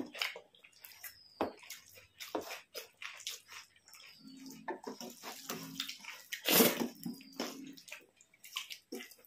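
Close-up eating sounds: wet mouth smacks and clicks from chewing rice and fish curry, with a couple of short low hums and one louder smack about two-thirds of the way through.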